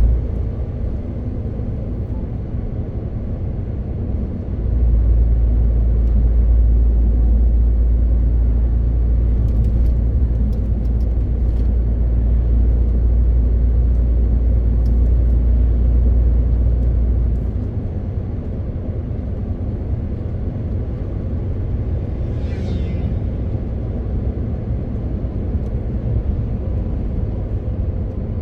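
MAN TGX 18.520 truck's inline-six diesel engine and tyres running steadily on the road. A much louder deep rumble comes in about four seconds in and drops away again after about thirteen seconds. A brief high swish follows a few seconds before the end.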